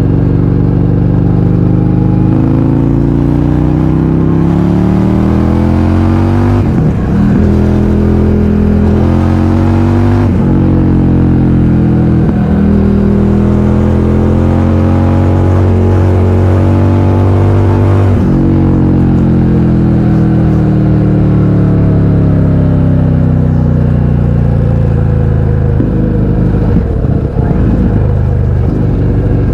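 2020 Indian FTR 1200 Carbon's V-twin running through an Akrapovič exhaust with the baffles removed, pulling up through the gears: the revs climb, break at each shift and climb again. Later the revs fall steadily as the bike slows on the throttle.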